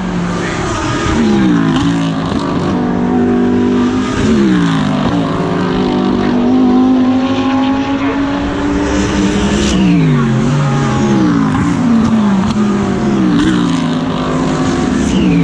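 GT3 race car engines at speed, their pitch climbing and then dropping sharply several times as the cars accelerate, shift and brake.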